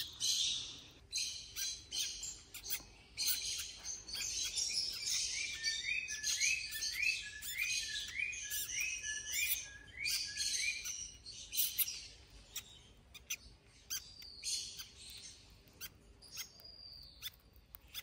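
High bird chirps and twitters, with a run of about ten short rising peeps, roughly two a second, in the middle, and scattered light clicks.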